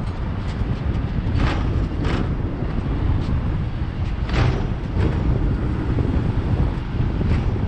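Hong Kong double-decker electric tram running along its street tracks: a steady low rumble with a few sharp knocks about a second and a half, two, and four and a half seconds in.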